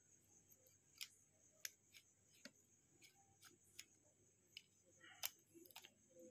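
Faint, irregular small clicks and taps, about ten of them, as a mobile phone's plastic cover is pressed and snapped back onto the handset; the loudest click comes about five seconds in.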